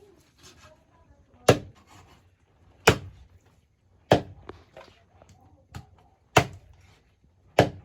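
Raw broiler chicken being chopped into pieces with a blade: five heavy chops roughly every second and a half, with a few lighter knocks between them.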